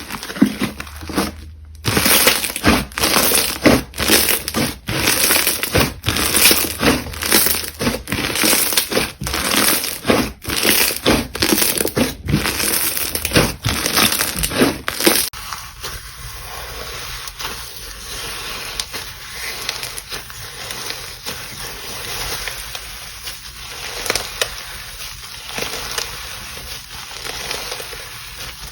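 Slime being squeezed and pressed by hand: a run of loud, crackly squishes and pops, then, about fifteen seconds in, an abrupt switch to a quieter, steady fine crackling.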